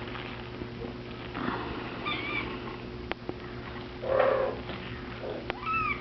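Bengal kitten mewing: two short, high-pitched mews, one about two seconds in and one near the end. A louder breathy noise comes a little after four seconds.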